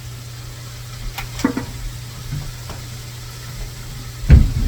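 Olive oil heating in a small frying pan with a faint sizzle over a steady low hum. A few light clicks come about a second and a half in, and a loud dull thump near the end.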